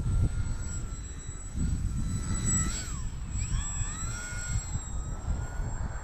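Electric motor and propeller of a small RC 3D plane (Bayer Model 32" Vertigo) whining in the air, its pitch rising and falling with the throttle. Gusty wind buffets the microphone underneath.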